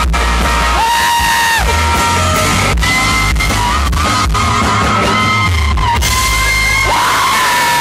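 Live country band playing loudly over a heavy bass line, with long held notes that slide up and down, and audience members yelling and whooping along.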